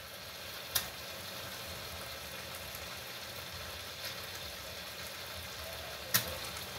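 Omena (small dried fish) frying with tomato in a wide pan on a gas stove: a steady sizzle, with two sharp clicks, about a second in and near the end.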